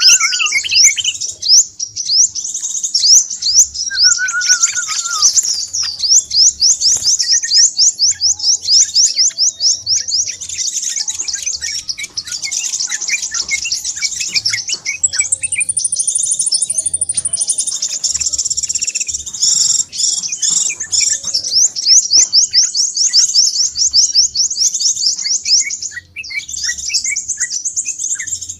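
Scarlet minivets (sepah raja) calling in a dense, busy chorus of rapid high chirps, a continuous lure recording used to attract birds for trapping. A few lower whistled phrases come in during the first few seconds.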